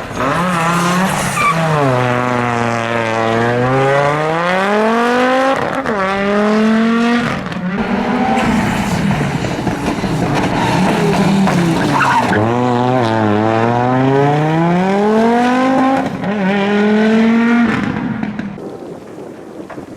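Audi Quattro S1 rally car's five-cylinder engine, loud and under hard acceleration, its pitch climbing and dropping back again and again as it revs up and comes off the throttle. Near the end the engine dies away.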